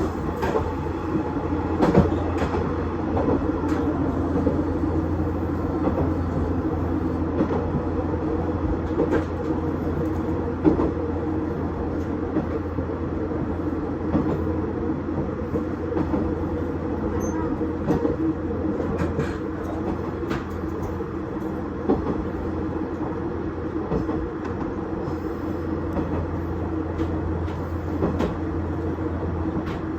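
KiHa 110 series diesel railcar running along the line: a steady low engine and running drone with scattered clicks and knocks from the wheels over the track.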